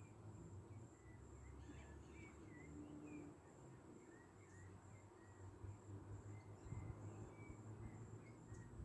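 Faint evening garden ambience: a steady, high, pulsing insect trill with scattered soft bird chirps over a low background rumble.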